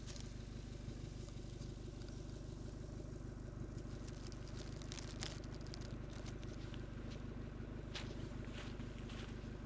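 Suzuki Swift sedan engine idling steadily through a WM Sport aftermarket exhaust, with no revving and a few brief clicks.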